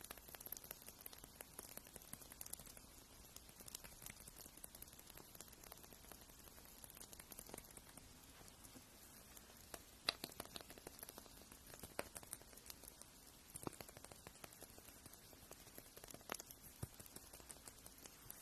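Nail grinding: faint, irregular small ticks and scratches of a fingernail being filed, with one sharper click about ten seconds in.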